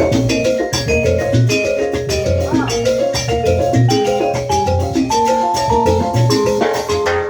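Salsa music from a band: a driving percussion rhythm under repeating bass notes and quick melodic lines.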